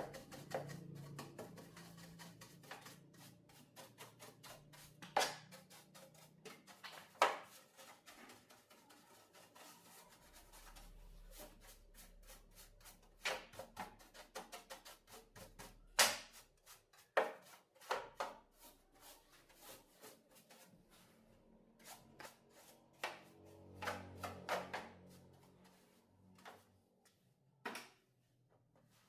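Scattered clicks, taps and knocks of objects being handled on a workbench, irregular and sharp, over a faint low hum.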